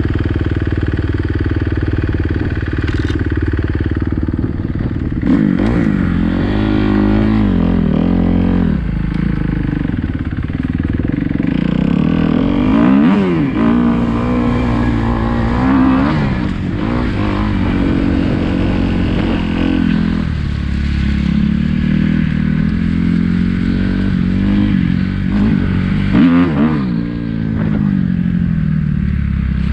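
Kawasaki KX250F dirt bike's four-stroke single-cylinder engine revving up and down, its pitch rising and falling several times as the throttle is opened and shut.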